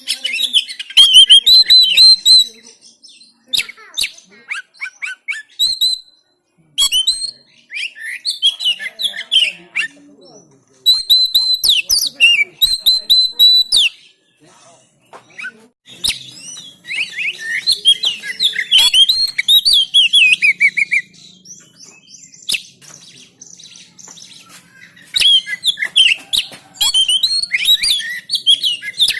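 Oriental magpie-robin singing loud, rapid phrases of chirps and trills. The song comes in bouts of a few seconds with short pauses between, the longest pause a little after the middle.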